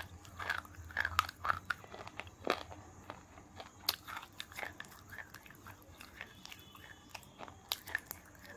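Close-up crunching and chewing of a hard white block soaked in water, with irregular crackling bites and a few louder snaps.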